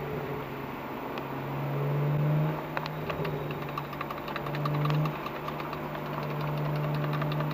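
BMW 335i's N54 twin-turbo straight-six running at low speed, heard from inside the cabin, swelling briefly twice. From about three seconds in there is a run of light clicks from the JB4 tune's steering-wheel buttons being pressed to change performance settings.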